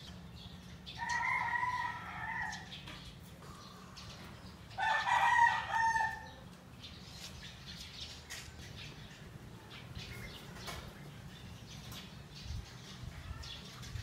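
A bird calling twice: two long drawn-out calls, the second louder and coming about four seconds after the first.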